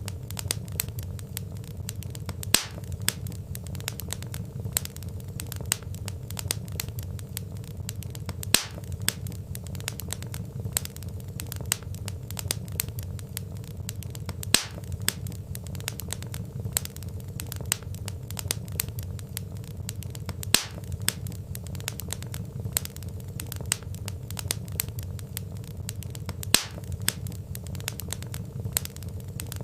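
Wood fire crackling: a dense stream of small crackles and snaps over a low, steady rumble of flame, with a louder pop about every six seconds.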